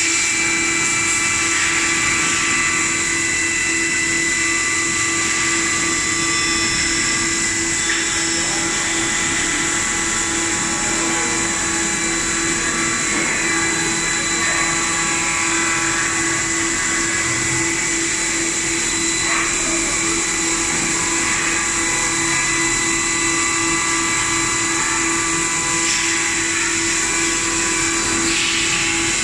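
3-axis CNC vertical machining center running, its spindle giving a steady high-pitched whine with several constant tones over a hiss.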